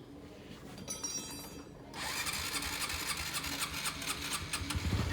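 A motor-driven machine starts about two seconds in with a fast, even mechanical clatter. A low rumble grows under it near the end.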